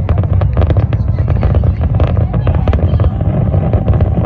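Fireworks crackling in many rapid sharp pops over a steady low rumble, the popping thinning out in the last second.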